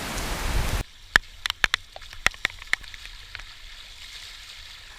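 Rush of heavy rainwater flowing, which cuts off abruptly under a second in. A faint hiss follows, with a scatter of sharp little clicks like drips over the next two seconds.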